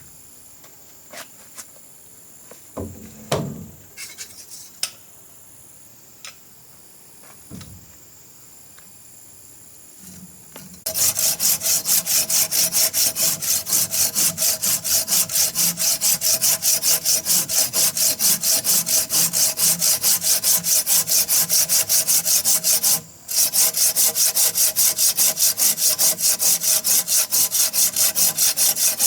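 Wood being sawn by hand, starting about eleven seconds in, with quick, even rasping strokes at about four a second and one short pause partway through; before that, a few scattered knocks.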